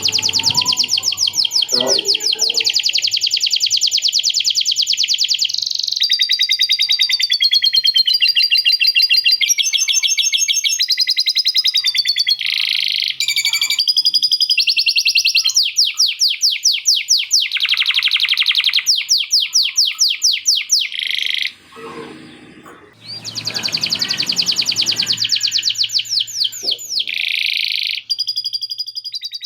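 Male canary singing a long, loud song of fast rolls and trills, high-pitched, including phrases learned from lovebird chatter. The song breaks off briefly about two-thirds of the way through, then resumes.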